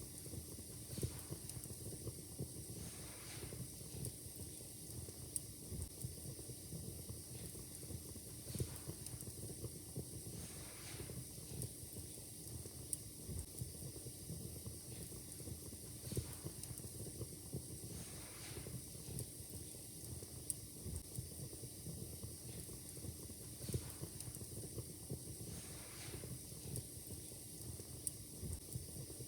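Wood fire crackling in a fireplace: a dense, irregular crackle with sharper pops every few seconds, over a steady hiss.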